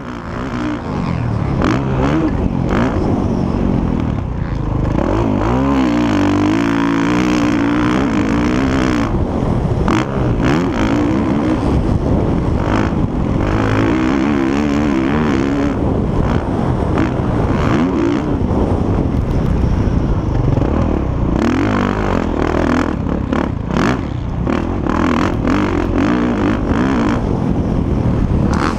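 Motocross bikes racing on a dirt track, their engines revving up and falling back over and over, with several engines overlapping.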